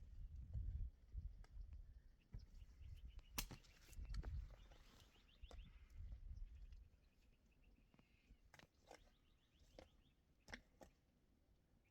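Quiet ambience with faint low thuds and a few sharp clicks, and short rapid series of high chirps, like a small bird, now and then.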